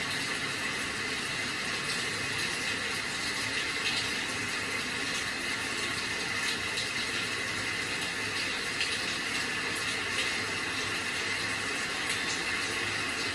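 Steady rain falling, an even unbroken hiss with faint scattered drop sounds.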